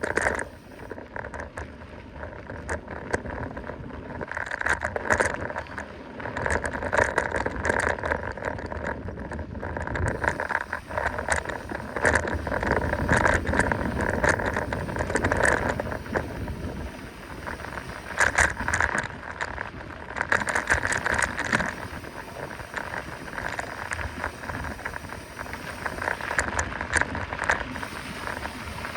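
Mountain bike riding fast down a dirt trail: steady tyre and riding noise that swells and fades, with frequent rattles and knocks from the bike over bumps.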